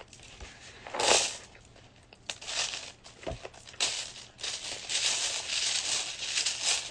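Bananagrams plastic letter tiles rattling and clicking as they are handled and spread out, with a louder clatter about a second in.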